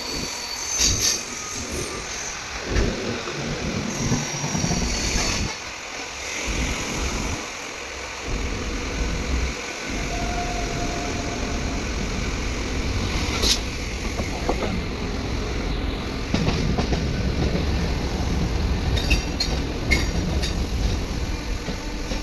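Diesel train running: a continuous low rumble with scattered clicks and knocks, uneven for the first several seconds and then steady.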